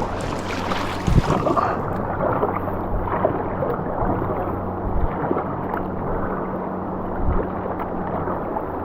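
Fast, high river current rushing around a canoe, with a few dull knocks from paddle strokes against the hull. The flow is strong because an upstream dam is releasing at full tilt.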